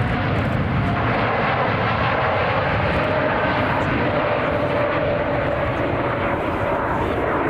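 Jet airliner's engines running loud and steady, with a faint tone that slowly falls in pitch as the aircraft passes.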